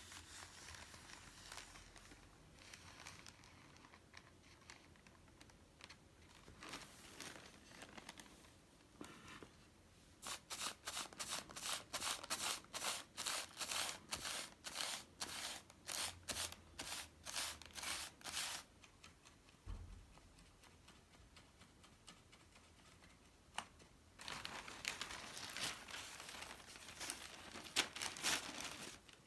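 Hand work on paper: light rustling and crinkling, then about eight seconds of quick rhythmic scraping strokes, roughly two or three a second. A denser stretch of rustling follows near the end.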